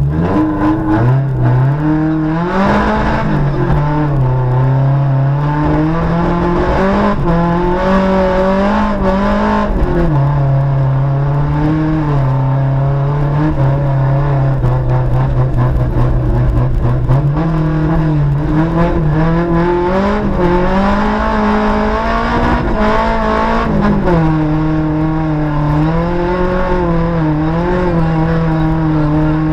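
VW Gol rally car engine heard from inside the cabin, running hard on a muddy dirt road. Its pitch climbs and drops with the gear changes, with steadier stretches between, over frequent knocks of mud and gravel striking the body.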